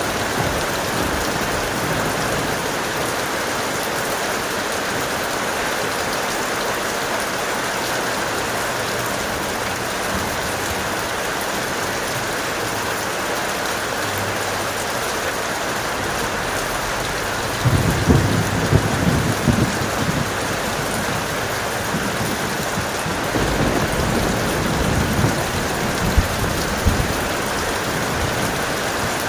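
Steady heavy rain, with thunder rumbling in twice in the second half: a crackling roll lasting a few seconds, then a weaker one soon after.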